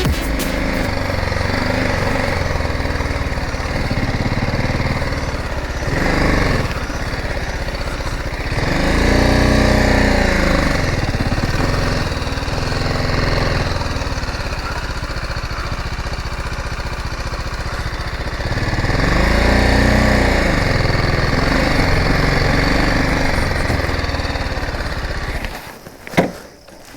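Motorcycle engine running under way, its revs rising and falling three times as the rider works the throttle. The sound cuts off abruptly a second or so before the end.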